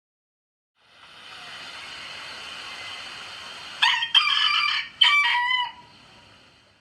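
A rooster crowing once, its call breaking into several loud pitched syllables and ending on a long falling note, over a steady background hiss.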